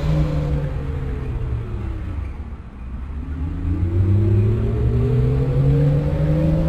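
Lisbon Metro ML90 train's electric traction drive heard from on board: a whine of several tones that falls in pitch over the first couple of seconds, dips briefly, then rises steadily again, over the rumble of the running train.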